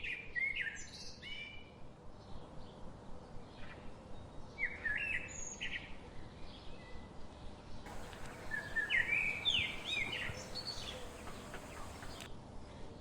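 A songbird singing short phrases of quick rising chirps, three times, over a steady background hiss that swells for a few seconds in the second half.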